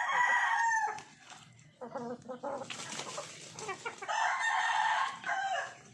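Rooster crowing twice: one crow ending about a second in, another starting about four seconds in and held for over a second, with chickens clucking in between.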